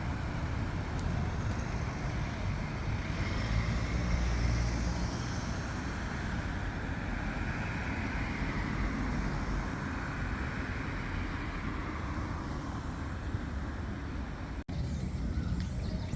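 Road traffic: vehicles passing on a town street, a continuous rumble of engine and tyre noise that swells twice as vehicles go by.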